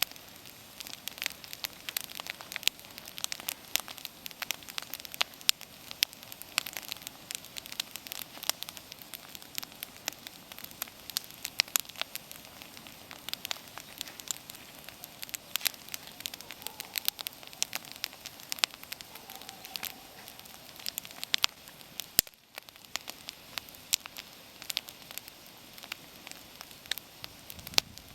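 Wood bonfire burning: irregular sharp crackles and pops over a steady hiss of the flames, briefly dropping away about three-quarters of the way through.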